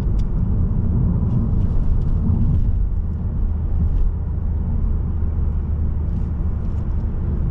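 Mazda3 sedan driving along, heard as a steady low rumble of road and engine noise, with a few faint ticks over it.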